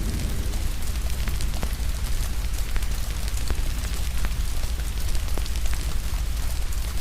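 Steady rain mixed with a wood fire crackling: irregular sharp pops and snaps over an even hiss, with a steady low rumble underneath.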